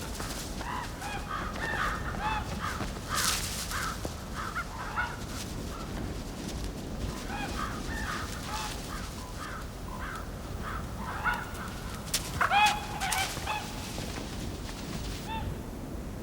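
A flock of corvids cawing: many short, harsh calls overlapping, coming in clusters with the loudest bunch of calls about two-thirds of the way through, over a steady background hiss.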